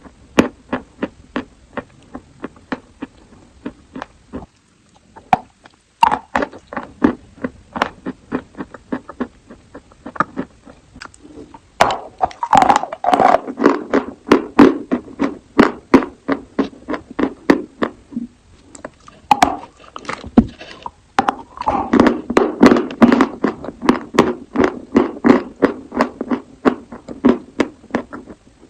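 Close-miked crunching of chalk being bitten and chewed: a rapid run of sharp, crisp cracks, pausing briefly about five seconds in, with two denser, louder stretches of crunching in the middle and in the last third.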